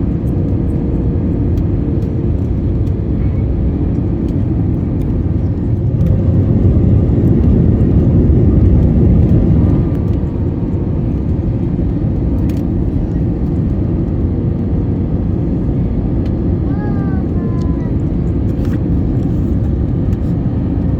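Airbus A321neo airliner noise as heard from the passenger cabin: a steady low rumble that grows louder for a few seconds in the middle, then settles back.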